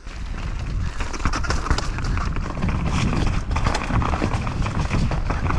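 Mountain bike riding down a wet, rough downhill trail, heard through an action camera riding along: continuous rattling and knocking of the bike over the ground, with tyre and wind noise.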